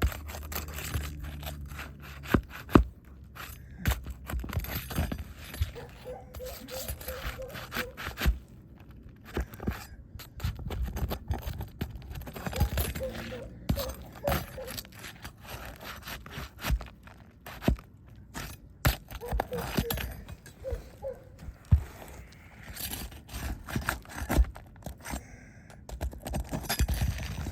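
Nails being pulled out of asphalt shingles as the shingles are lifted: repeated sharp clicks and knocks with scraping of tool and shingle grit, and a few short faint squeaks.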